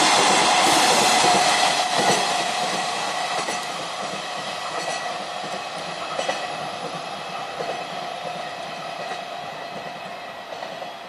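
Freight train of empty container flat wagons rolling past on the rails, wheels clacking over rail joints. The sound fades steadily as the train draws away.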